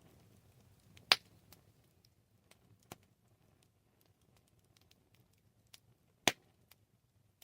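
Campfire crackling: scattered small snaps and two sharp loud pops, about a second in and near the end, over a faint low rumble.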